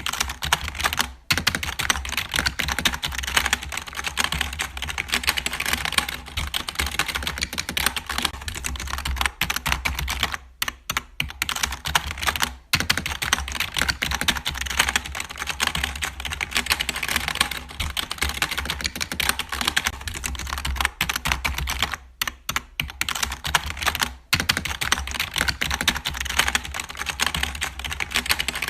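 Dense, fast clicking and tapping with a few short pauses, over a low steady hum.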